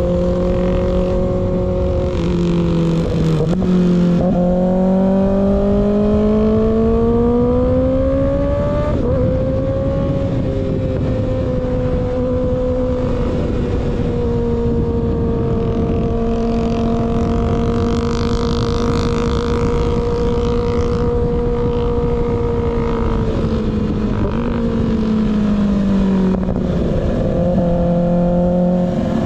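Kawasaki ZX6R inline-four engine running through an unbaffled M4 GP19 slip-on exhaust. Its pitch rises under acceleration, dips briefly about three seconds in, and climbs again. It holds steady at cruise, then falls as the throttle eases off a few seconds before the end. A steady rush of wind and road noise runs underneath.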